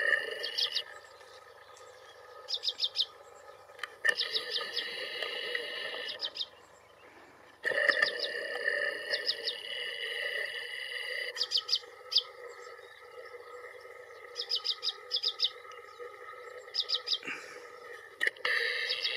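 Small birds chirping: quick runs of a few high notes, repeated every two to three seconds over a steady background of outdoor sound.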